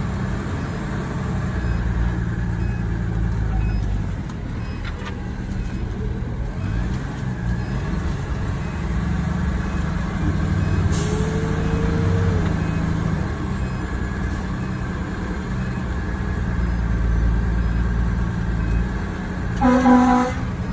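Fire engine's diesel engine running steadily as the truck drives, a low rumble throughout. A brief hiss about halfway through and a short pitched sound near the end.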